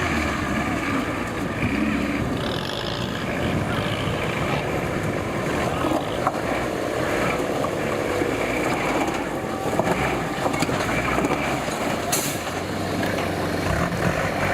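Off-road 4x4 vehicle engine running steadily, mixed with continuous outdoor noise.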